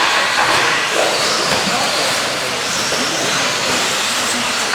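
A pack of electric RC stadium trucks with 13.5-turn brushless motors racing: a steady, hissy whine of motors, gears and tyres on the track.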